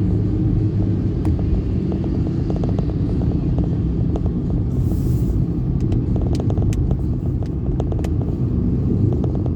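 Steady low rumble of road traffic and a moving vehicle's engine and tyres, with scattered small clicks and a brief hiss about five seconds in.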